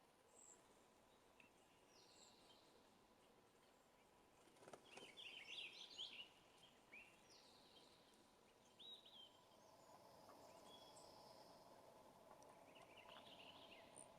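Faint backyard songbirds chirping: scattered short calls and quick down-slurred notes, with a busier burst of twittering about five seconds in and another near the end.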